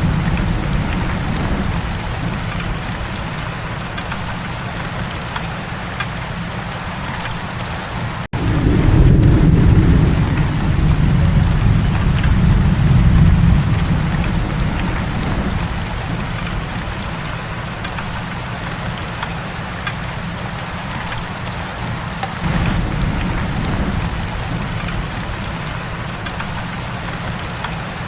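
Heavy rain falling steadily, with low rolls of thunder. The thunder swells just after a brief gap about 8 seconds in, fades, and rises again in the last third.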